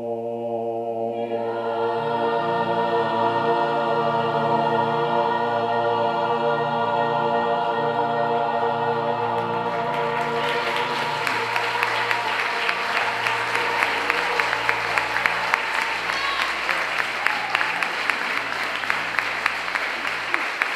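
A gospel choir holding a long final chord, which fades away as audience applause starts about halfway through; the clapping carries on to the end.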